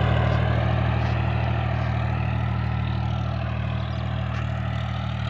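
John Deere tractor's diesel engine running steadily at low revs, growing slightly quieter over the few seconds.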